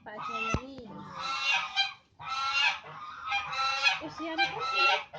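Domestic fowl calling in a run of about five calls, each under a second long.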